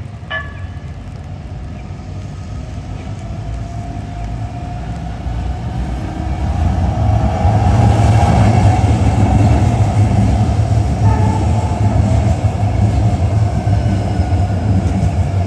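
Heavy vehicle passing close by: a low rumble that builds over the first several seconds, is loudest around the middle and holds there, with a faint steady whine above it.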